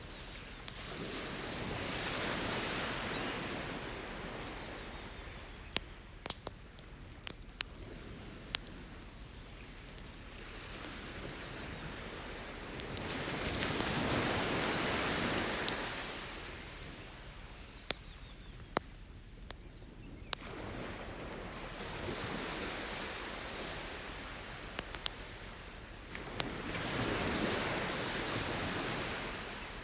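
Ocean surf washing ashore in four slow swells, with a campfire crackling: sharp, scattered pops between the waves.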